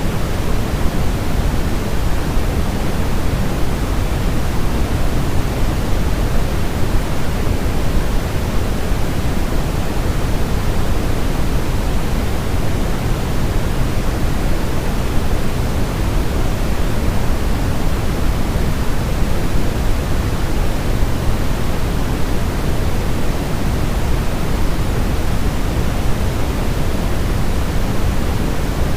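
Steady, unbroken sleep-aid noise of the kind sold as baby white noise, a constant hiss weighted toward the low end like pink noise, with no changes or events.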